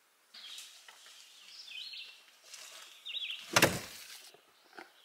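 Birds chirping and singing outdoors, with one loud knock about three and a half seconds in.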